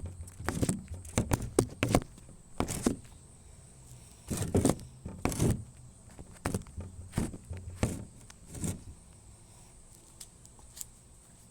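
Irregular footsteps and handling knocks, a dozen or so bumps and thuds that thin out over the last few seconds, with no engine running.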